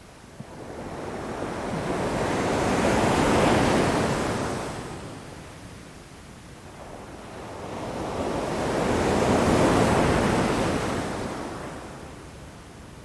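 Ocean waves breaking against rocks: two waves swell up and wash back out, the first peaking about three and a half seconds in, the second about ten seconds in.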